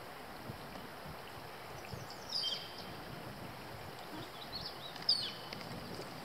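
A bird calling twice, each a short call falling in pitch, about three seconds apart, with a few fainter chirps before the second, over a steady background rush of moving air.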